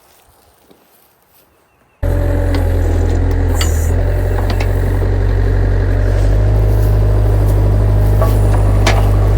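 Quiet for about two seconds, then, abruptly, an excavator's diesel engine running steadily under load, with scattered knocks and scrapes over it.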